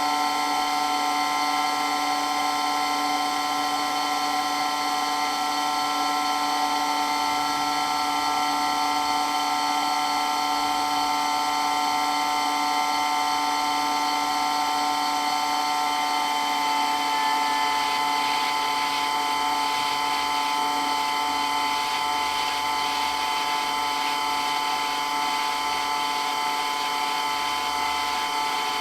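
Water pump running with a steady whine made of several steady tones, which shift slightly about halfway through.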